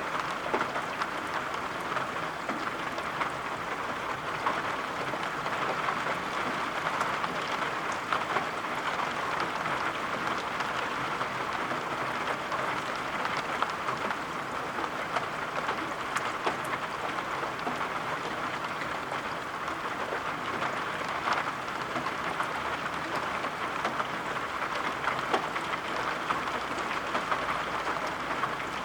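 Steady rain falling, an even hiss with scattered light ticks.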